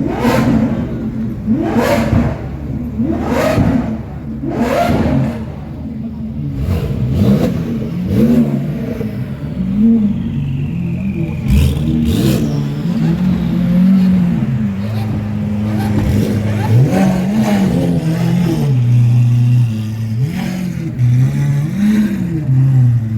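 Sports car engines being revved: a quick run of sharp throttle blips about every second and a half for the first five seconds, then a lower engine note that keeps rising and falling.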